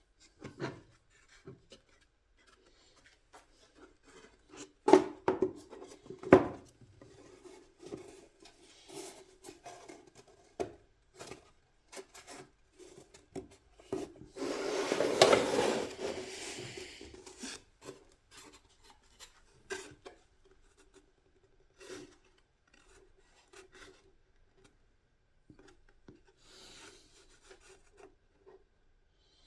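Hand work on a project enclosure: scattered clicks and knocks as parts are handled and fitted, the two sharpest knocks about five and six seconds in. About halfway through comes a few seconds of rubbing, scraping noise.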